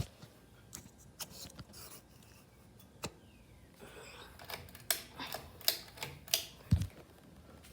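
Ceiling fan ticking: light mechanical clicks, sparse at first, then about three a second in the second half, with one dull low thump near the end.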